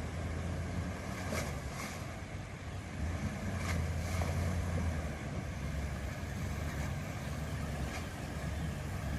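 Four-wheel-drive vehicle engine running steadily at low revs during a river crossing, with a steady hiss over it and a few faint clicks.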